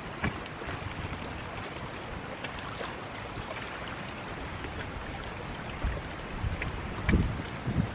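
Steady wash of seawater with wind on the microphone, the wind gusting in low rumbles near the end.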